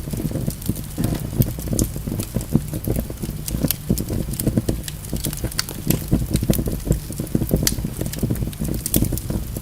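Wood logs burning in a fireplace: a steady low rush of flame with many irregular sharp crackles and pops.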